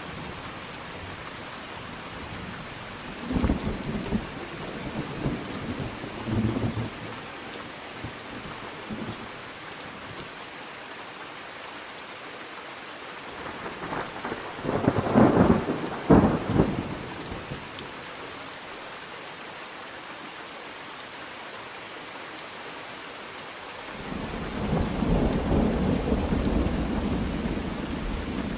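Thunderstorm: steady rain with rolls of thunder. Scattered rumbles come in the first few seconds, a loud sharp crack-and-rumble about halfway through, and a long low rumble builds up near the end.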